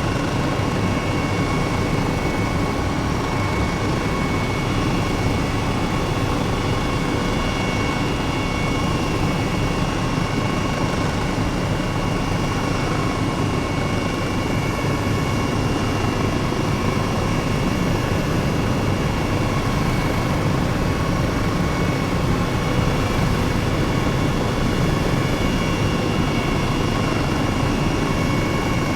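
Helicopter running steadily in flight, heard from aboard: a constant rumbling drone with a thin, steady high whine over it.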